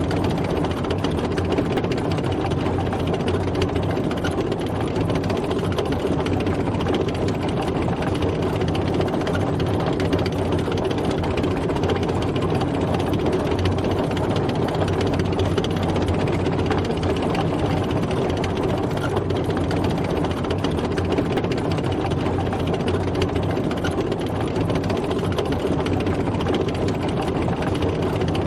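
Tank driving: its engine running steadily with a constant rattle and rumble, even in level throughout.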